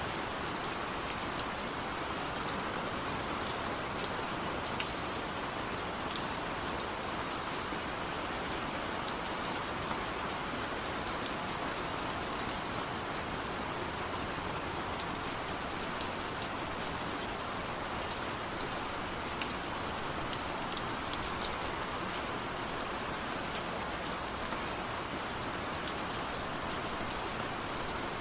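Steady rain falling and pattering on surfaces, with many individual drops ticking sharply over an even hiss.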